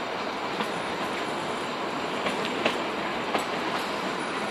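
Carriage of the narrow-gauge Kalka–Shimla toy train running steadily along the track. Its wheels clack sharply on the rails a few times, loudest about two and a half seconds in.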